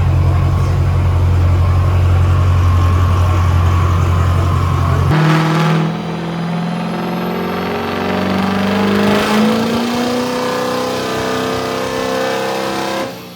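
Diesel truck engine running loud and steady, then, after an abrupt change about five seconds in, revving with its pitch climbing slowly until it cuts off suddenly near the end.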